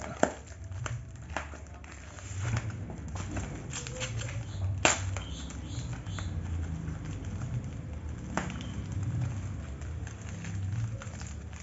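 Packaging being handled and unwrapped by hand: scattered crackles, rustles and small knocks, with a sharper knock about five seconds in and another near eight and a half seconds.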